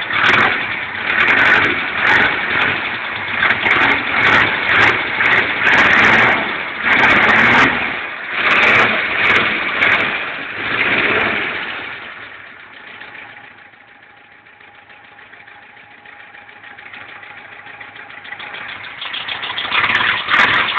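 Car engine revved in repeated surges for about twelve seconds, then dropping to a much quieter idle with a thin steady whistle, and picking up again near the end. The owner reports that the engine knocks and whistles since being started.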